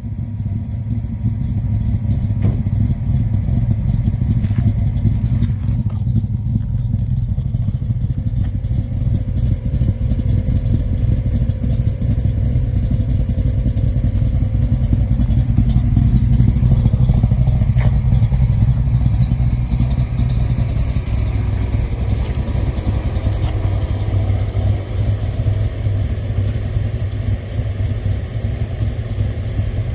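Big-block V8 of a 1966 Chevrolet Bel Air wagon idling steadily with a deep exhaust rumble, swelling a little around the middle.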